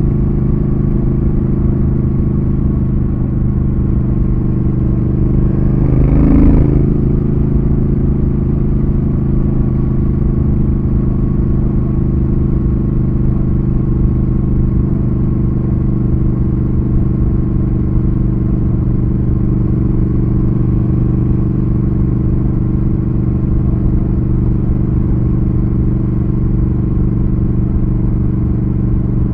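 Triumph Thruxton RS's 1200 cc parallel-twin engine running at steady revs while cruising, with a brief louder rush about six seconds in.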